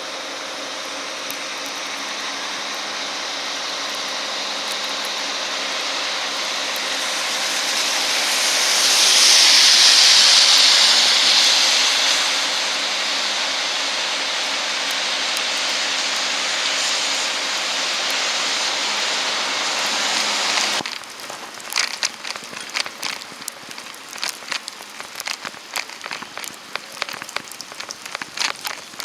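Steady traffic noise with a low hum, swelling to a loud hiss as a vehicle passes on a slushy wet street about ten seconds in. It cuts off abruptly after about twenty seconds, and irregular crackling ticks of wet snow falling on a surface follow.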